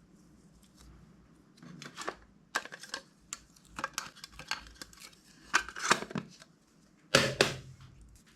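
Glossy slime being squished and pressed by hand, making an irregular run of wet clicks and pops, with the loudest squelch near the end.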